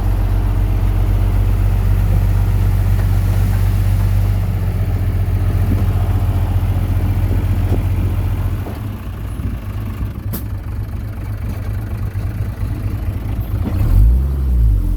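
Heavy earthmoving diesel engine running steadily, then dropping in level a little over halfway through and turning uneven, with a single sharp clank shortly after and the engine speed rising and falling near the end.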